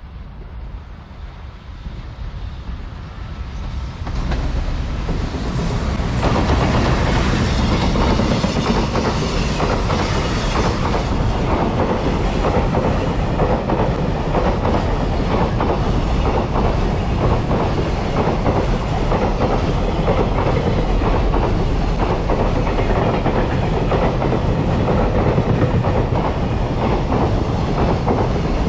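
An EF210 electric locomotive hauling a freight train passes close by. It comes up quietly, grows loud about four seconds in, and is followed by a long run of wagon wheels clattering over the rail joints.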